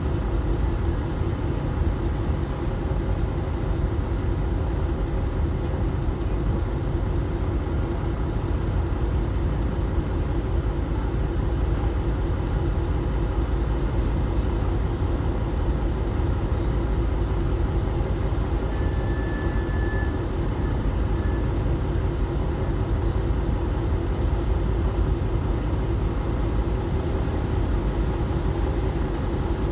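A large engine running steadily with a continuous low drone.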